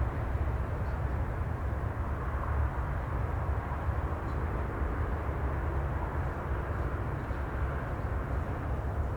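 Steady sea ambience: an even low rumble with a soft hiss over it, and no distinct wave breaks.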